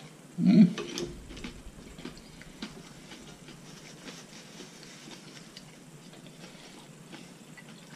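Close-up chewing of a cracker with brie: faint, scattered crunching clicks. A short, louder mouth sound comes about half a second in.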